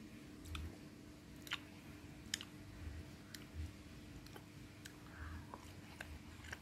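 Someone eating a soft, chewy rice cake: faint scattered clicks and a few soft low thumps of chewing and mouth sounds, over a faint steady hum.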